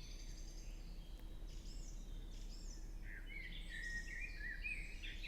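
Forest birdsong: several small birds chirping and twittering in short, quick high notes, starting about a second and a half in and growing busier towards the end, over a faint steady forest hush.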